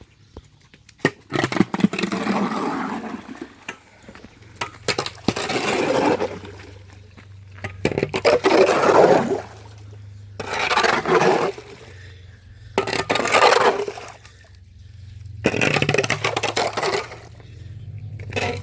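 Repeated scraping strokes through wet muck, each a second or two long, coming every two to three seconds, with short clicks and knocks between them.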